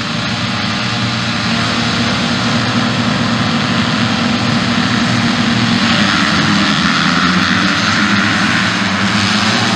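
Motocross motorcycle engines running hard at high revs, several overlapping, swelling a little louder after about six seconds.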